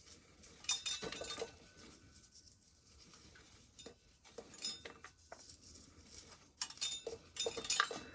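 Scattered clinks and clattering of small hard objects being handled, in short bursts about a second in, midway and near the end.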